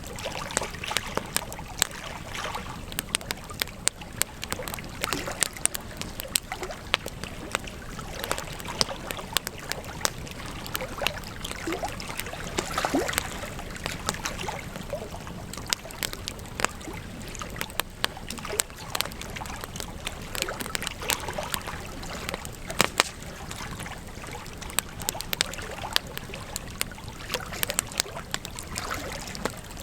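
Wood campfire crackling: many sharp, irregular snaps and pops over a steady hiss of burning, with a few brief squeaky whistles near the middle.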